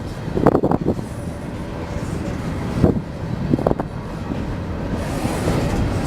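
A train rolling past on the tracks: a steady rumble with sharp wheel clacks over rail joints in two short clusters, growing louder near the end as the train draws closer.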